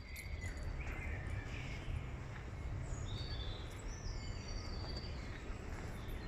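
Woodland birdsong: several birds singing short phrases one after another, over a steady low rumble.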